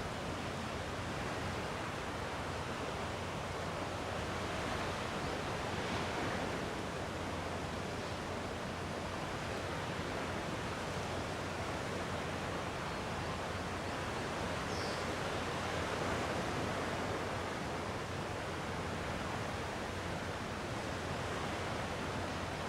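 Calm sea waves washing in gently: a steady rush of surf with slow, soft swells.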